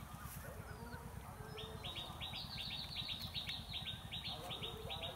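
A bird calling in a fast run of short repeated chirps, about five or six a second, starting about a second and a half in and keeping on, over a low steady rumble.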